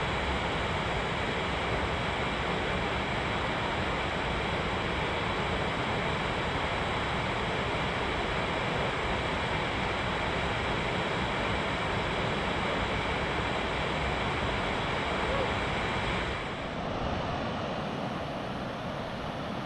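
Crystal Creek Falls, a small man-made waterfall, rushing steadily. About three quarters of the way through, the sound turns a little duller and quieter.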